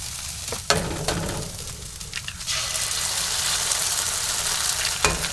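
Food sizzling in a hot frying pan (sweet potato and rice in butter), with a few sharp clicks. The sizzle grows louder about halfway through.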